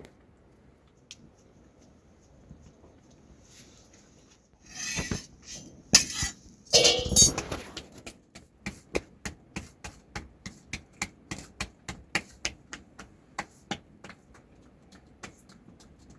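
Metal kitchen utensils clattering, with one loud clatter, followed by a steady run of sharp taps about three a second, like a spoon or utensil knocking against a metal pot or plate.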